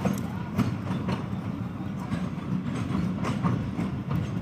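Passenger train coaches running on the track: a steady low rumble with irregularly spaced sharp clicks of the wheels over rail joints.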